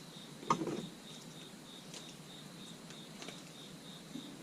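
Small plastic dash cam mount being handled: a soft knock with a brief rustle about half a second in, then a few light ticks.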